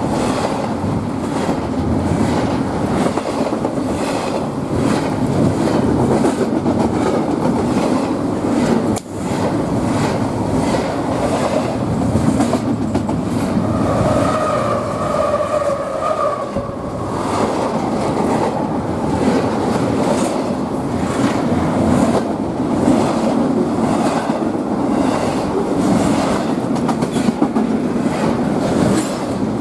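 Train running by, its wheels clattering over the rail joints in a steady rhythm. A short high tone sounds about halfway through.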